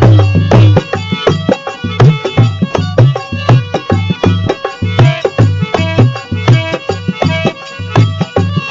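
Instrumental break in a Rajasthani devotional bhajan: hand drums playing a fast, steady beat with deep bass strokes about twice a second, under a melody instrument.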